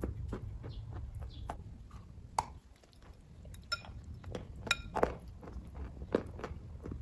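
A person chewing kaju katli (cashew fudge): a run of soft, wet mouth clicks and smacks, with two short ringing clinks about halfway through.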